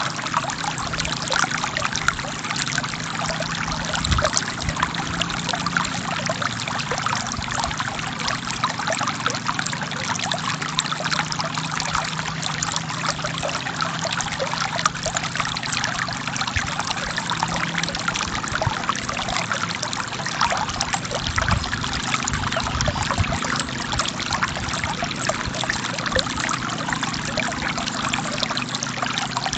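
River stream flowing: a steady rush of running water full of small splashes and trickles.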